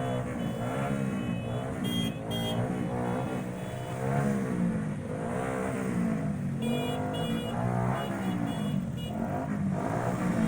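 Vehicle engines running and revving, their pitch rising and falling over and over.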